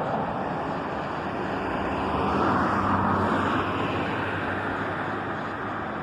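Steady road traffic and engine noise with a low hum, swelling as a vehicle passes about two to three seconds in and then easing off.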